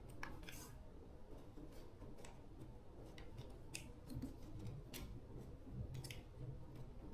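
Faint, scattered light clicks and ticks, irregular at about one or two a second, over a low background rumble.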